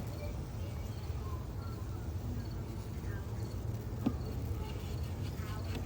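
Crickets chirping: short, high chirps repeating about once a second over a steady low hum, with a sharp click at the start and another about four seconds in.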